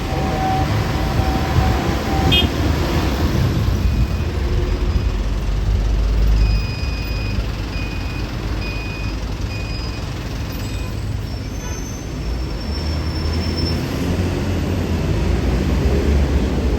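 Heavy road traffic with buses running past in a steady low rumble. A short electronic beep repeats evenly for several seconds in the middle.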